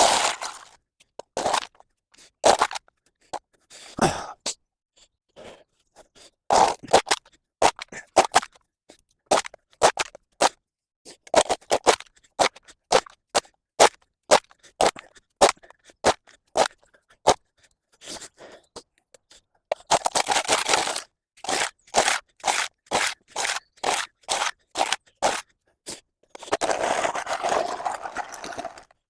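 A hand tool scraping mud and leaves off a paved path: a string of short, sharp scraping strokes, with longer, denser scrapes near the end.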